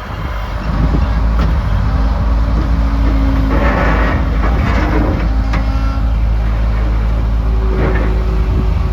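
Case 445 skid steer's diesel engine running, getting louder about a second in, with a louder hissing surge in the middle.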